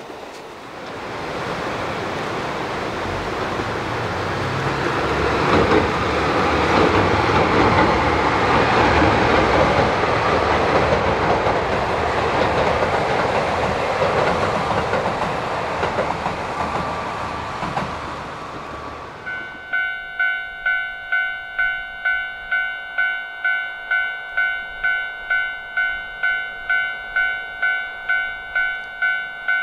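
A train passing on track with wheels clattering, swelling to its loudest midway and then fading. It cuts off abruptly to a pitched electronic ding repeating about twice a second.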